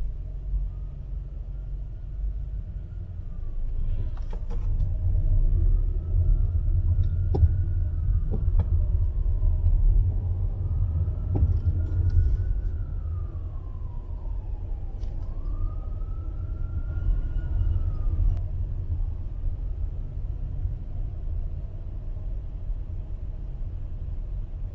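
Low, steady street-traffic rumble with a siren wailing in the distance, its pitch slowly rising and falling about four times before fading out near the end. A few sharp knocks sound over it.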